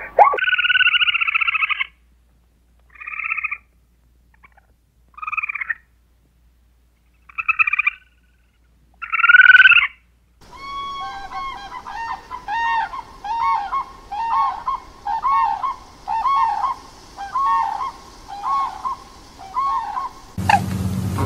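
Animal calls: one long call, then four short calls spaced about two seconds apart, then a steady run of repeated short calls.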